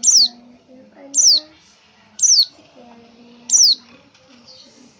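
Female pelci songbird giving a sharp, high whistled call that slides down in pitch, four times about a second apart. This is the female's call used to draw a male to answer.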